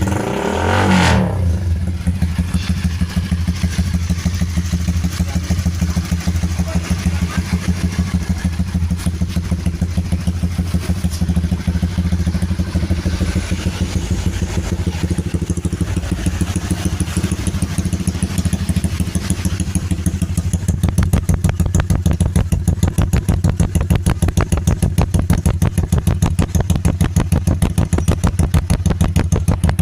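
Honda CBR150R single-cylinder engine running through an aftermarket Norifumi-style racing exhaust: a short rev about a second in, then a steady, loud idle with an even, fast exhaust pulse.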